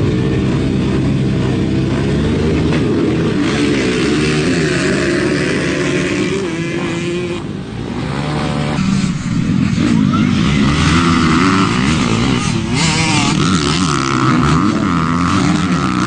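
Several motocross bikes' engines running hard together, their pitches rising and falling as riders work the throttle.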